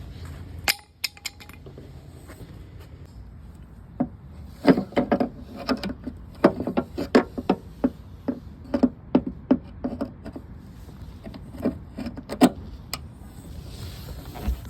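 Irregular light clinks and knocks of metal parts and hand tools being handled while a hatch lift support is fitted, with a sharp click about a second in and a busy run of knocks from about four to twelve seconds in.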